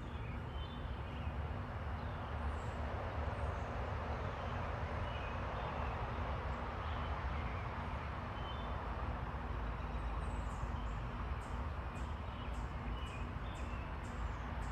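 Small backyard birds giving scattered short chirps over a steady rushing background noise that swells a little midway. A quick run of short, very high call notes comes in over the last few seconds.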